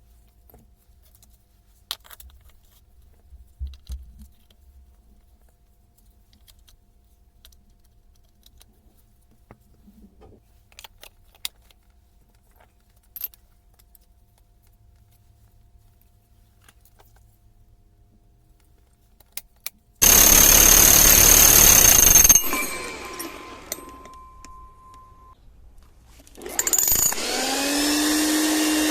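Hilti TE 80 combi hammer test-run after its rebuild: after a long stretch of small handling clicks, it runs loudly for about two seconds and winds down. It starts again near the end, its motor pitch rising as it spins up.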